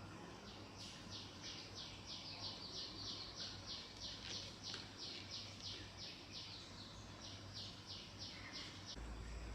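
A bird chirping in a rapid, even series of short high notes, about four a second, stopping shortly before the end, over a faint low hum.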